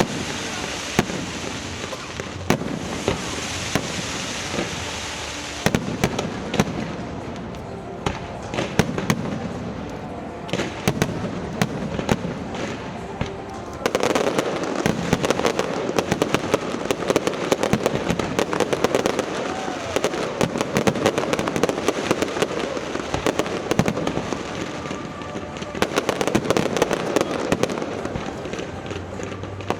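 Aerial fireworks going off in a string of sharp bangs and crackles, turning into a denser, louder crackling barrage about halfway through.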